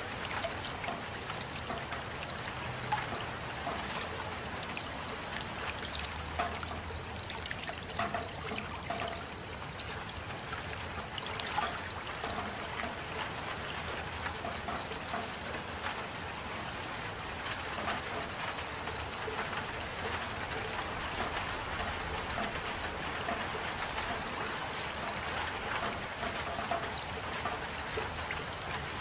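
Steady rain, with many close individual drops ticking and water trickling.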